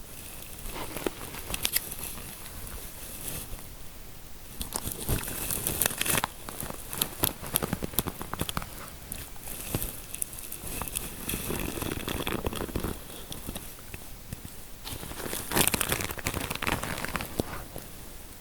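Fingers rubbing and scratching through hair close to the microphone for a scalp massage: a dense, crackly rustle of fine clicks that swells and eases in waves.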